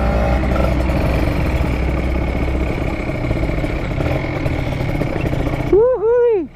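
Kawasaki Ninja RR two-stroke motorcycle engine running as the bike rides over a rough dirt track, heard from the rider's seat. Near the end comes a brief two-note whoop from a voice, rising and falling twice.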